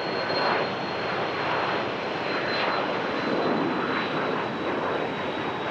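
Aircraft engine noise: a steady rush with a thin high whine that drifts slightly lower.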